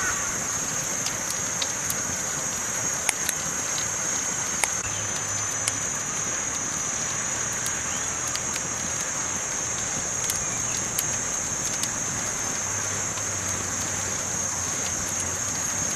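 Campfire crackling: a steady hiss of burning with scattered sharp pops and snaps every second or so.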